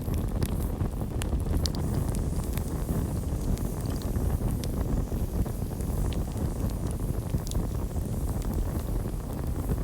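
Campfire burning: a steady low rumble with frequent short, sharp crackles and pops.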